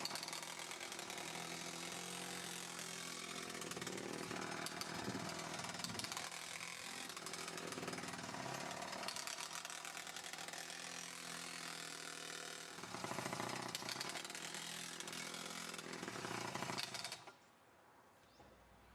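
Atlas Copco Cobra Combi breaker running, its two-stroke engine and built-in impact mechanism hammering steadily while it works a fence post out of the ground. It grows a little louder for a few seconds past the middle, then stops abruptly near the end.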